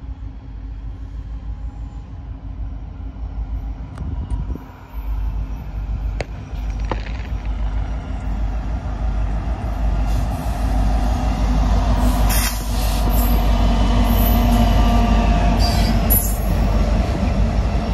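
Freight train cars rolling past with a steady low rumble that grows louder, with a few sharp clicks early on. From about halfway through, the wheels squeal against the rails with a wavering pitch.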